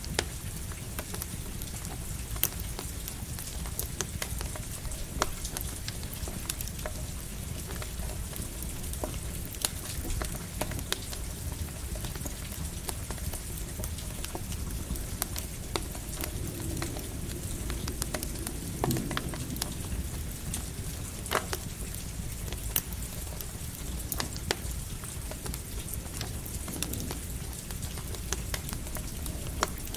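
Campfire crackling with scattered sharp pops over the steady patter of light rain.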